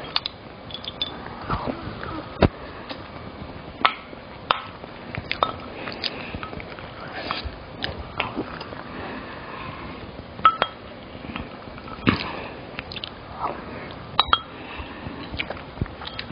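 A person eating close up: chewing and biting with many irregular wet clicks, and a few clinks of cutlery against dishes.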